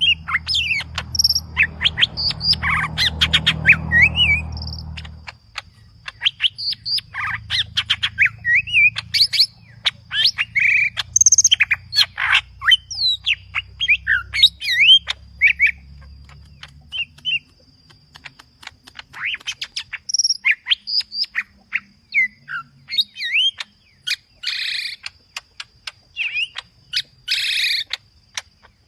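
Cucak ijo (greater green leafbird) singing a loud, rapid, non-stop string of varied chirps, whistles and sweeping notes. Its song is full of mimicked phrases (isian). A low hum lies under the song for about the first five seconds.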